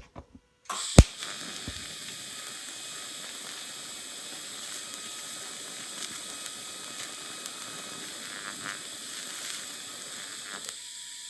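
Electric arc welding a bead on galvanized steel: a steady crackling hiss that starts with a sharp snap under a second in and stops shortly before the end. There is a bit of contamination from the galvanized coating.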